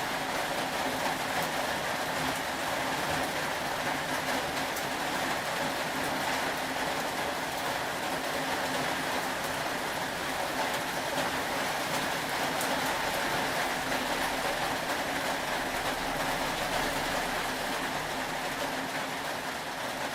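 Steady rain, an even hiss with a few faint ticks of drops scattered through it.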